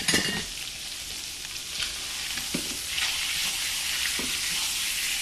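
Salmon fillet sizzling in butter in a nonstick skillet, a steady frying hiss that grows a little louder about halfway through. A few light knocks come from a spatula and fork working the fillet against the pan.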